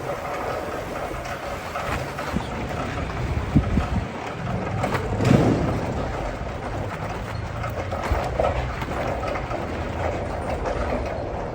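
Vintage bicycle in motion: a steady rumble of tyres rolling on the road with irregular rattles and knocks, and a louder jolt about three and a half seconds in.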